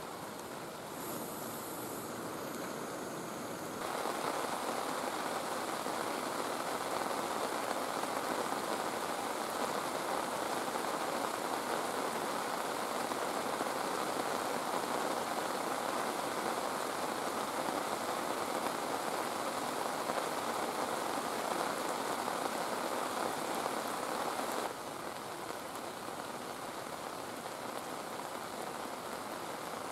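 Heavy rain falling steadily, an even hiss of drops; it steps up sharply in loudness about four seconds in and drops back just as suddenly a few seconds before the end.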